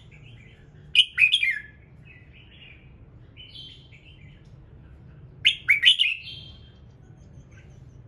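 Red-whiskered bulbul singing: two loud, quick phrases of sweeping whistled notes, about a second in and again about five and a half seconds in, with softer chirps between them over a faint low hum.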